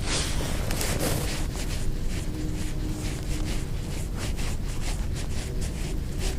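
Wind rumbling on the microphone, with a quick run of soft ticks through it.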